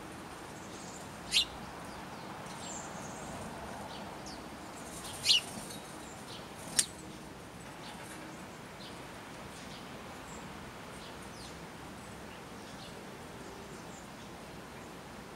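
Birds chirping at a food source: three short, loud, high calls in the first half, among many faint chirps over a steady hiss.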